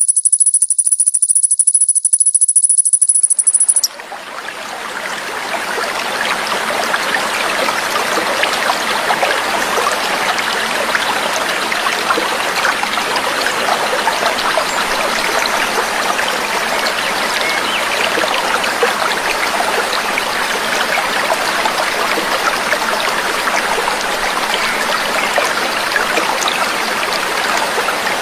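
A high, steady trill that cuts off abruptly about four seconds in, then babbling, trickling stream water fades in and runs on evenly.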